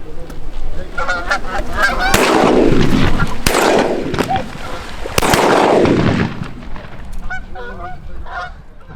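Canada geese honking as a flock works in low over goose decoys, with three loud rushing noises, each sharp at the start and fading over about a second, in the middle of the calling.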